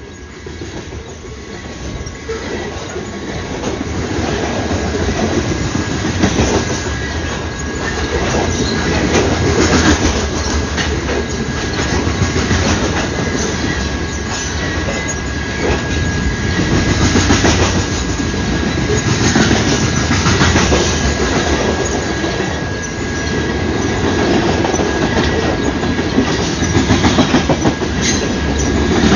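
A train rolling past, growing louder over the first few seconds, then a steady heavy rumble with repeated wheel clicks over the rail joints and a thin, steady wheel squeal.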